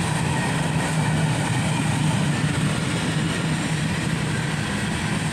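Freight train cars rolling past on the rails: a steady, unbroken rolling noise.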